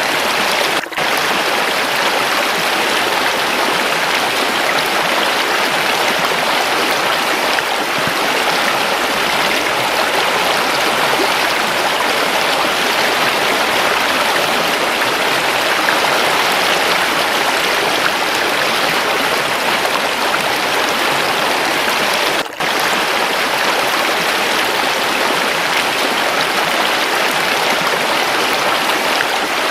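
Waterfall and running water: a steady, dense rush of falling water. It cuts out for a split second twice, about a second in and again about 22 seconds in.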